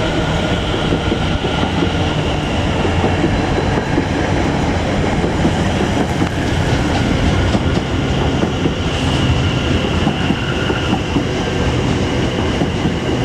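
A pair of Class 720 Aventra electric multiple units running into the platform, a loud, steady noise of wheels on the rails and the passing train. A high steady whine comes in about nine seconds in.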